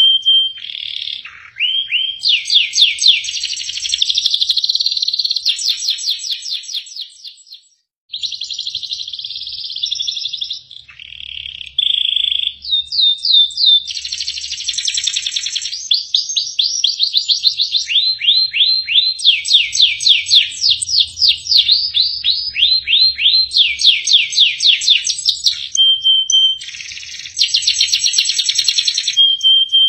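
Domestic canary singing a long, varied song of rapid trills and fast repeated sweeping notes, broken up by short held whistles. The song breaks off briefly near eight seconds, then runs on.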